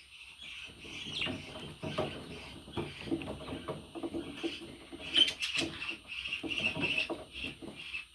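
Pet budgie chattering and warbling in a busy, unbroken stream of chirps, with scattered sharp clicks about five seconds in.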